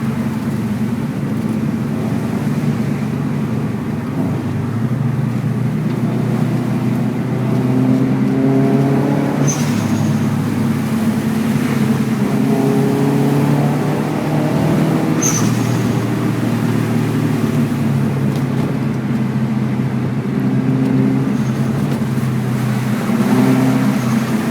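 Subaru WRX's turbocharged flat-four engine pulling under load, its note rising and falling through gear changes. Twice, about ten and fifteen seconds in, a short sharp hiss from the HKS blow-off valve venting as the throttle closes.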